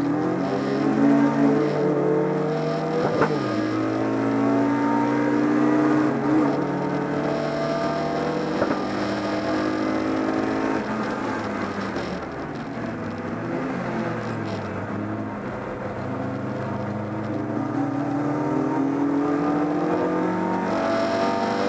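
BMW 318is race car's four-cylinder engine heard from inside the cabin under racing load, its pitch climbing repeatedly and dropping sharply, dipping for a while around the middle before climbing again near the end.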